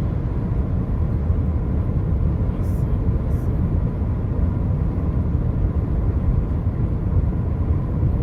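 Steady low rumble of a vehicle driving along a highway, its tyre and engine noise running evenly.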